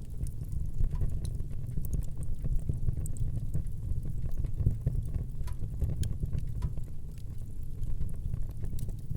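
Fire burning in a fireplace: a steady low rumble of flame with scattered sharp crackles and pops throughout.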